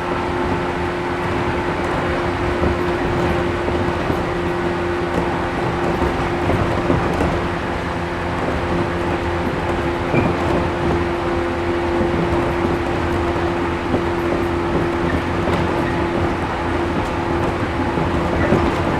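Inside the passenger car of a 113 series 1500-subseries resistance-control electric train running along the line: a steady mix of wheel and rail noise under a constant hum that holds one pitch, with occasional faint clicks.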